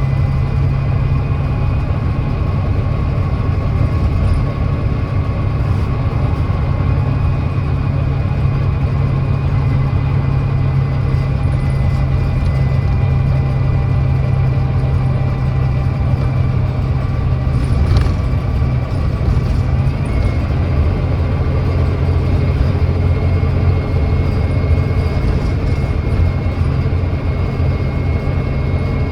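Volvo D9B 9.3-litre diesel engine of a Volvo B9TL double-decker bus running steadily under way. About two-thirds of the way through, its ZF Ecolife automatic gearbox kicks down from fifth to fourth and the engine note changes.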